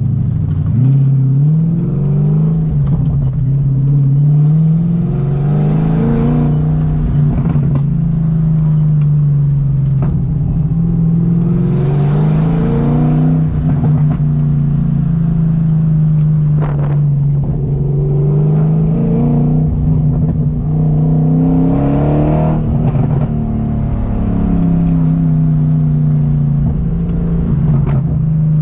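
Straight-piped BMW M60 V8 in an E30 pulling on the road, its pitch climbing under acceleration and dropping back several times as the throttle is eased or the gears change.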